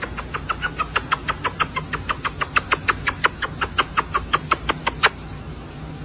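Steady low motor hum under a fast series of short chirps, about six a second, that stop about five seconds in.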